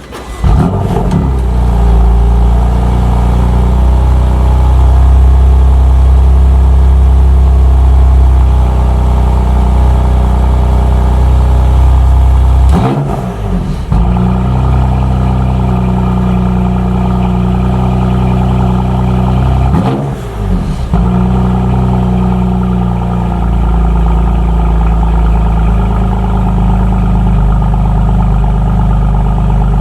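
BMW M2 Competition's twin-turbo inline-six starting up and running at a steady high idle. It breaks off briefly twice, then settles to a lower, quieter idle near the end.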